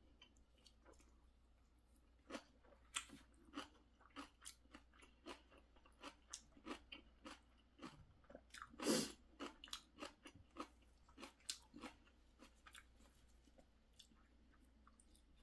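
Close-up chewing of crunchy altari (ponytail radish) kimchi: short crisp crunches about two a second, with one louder sound about nine seconds in. The crunching stops about twelve seconds in.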